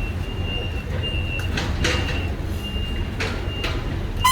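A heavy vehicle's reversing alarm beeps repeatedly in a high tone over a steady low engine rumble. A few short hissing noises come in the middle.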